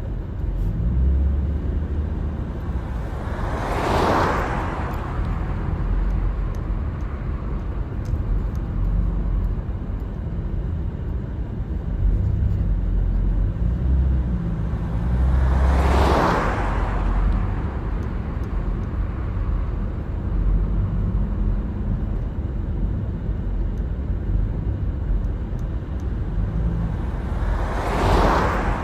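Car driving along a road: a steady low rumble of tyres and engine, with three vehicles swooshing past about twelve seconds apart.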